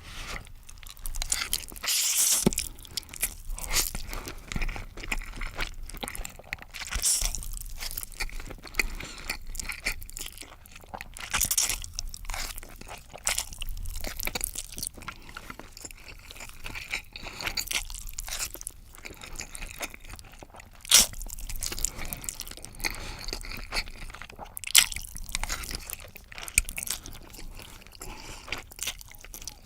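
Close-miked eating sounds from a ramen meal: irregular chewing, biting and crisp crunching, with a couple of sharp clicks past the middle.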